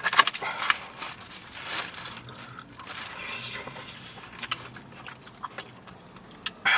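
Close-up eating sounds: chewing and biting with scattered mouth clicks and brief rustling or scraping of food and packaging, and a short vocal sound near the end.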